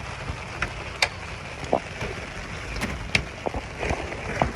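Heavy rain pouring down, a steady hiss with irregular sharp drops and splats hitting a surface close by.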